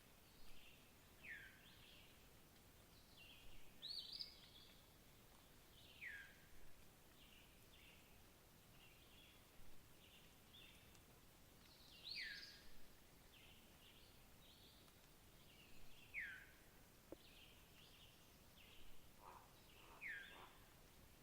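Faint songbird calls over a quiet background: a clear note sliding downward repeats about every four to five seconds, with short, higher chirps scattered between.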